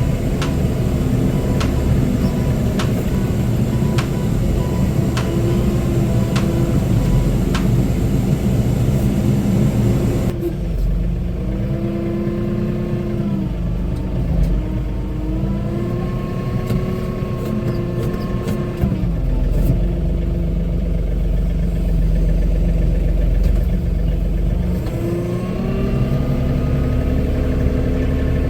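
John Deere compact tractor's diesel engine running steadily under work, its pitch dipping and recovering several times as it takes load. Sharp ticks come about once a second during the first eight seconds.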